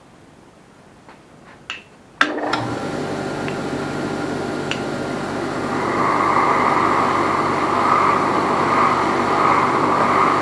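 A few light clicks, then a powered soft brass wire wheel starts suddenly about two seconds in and runs with a steady motor hum. From about six seconds in, a louder scratchy hiss joins as the wheel is held lightly against the edge of a Holden 173 engine's piston, brushing carbon off.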